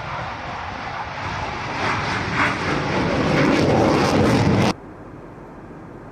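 Fighter jet engine running loud and building in level, then cut off suddenly about four and a half seconds in, leaving a much fainter steady noise.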